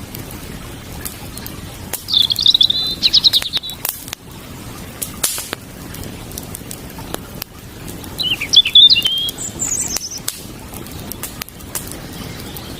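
Campfire crackling with scattered sharp pops over a steady hiss of running water, while a songbird sings two short trilled phrases, about two seconds in and again about eight seconds in, the loudest sounds here.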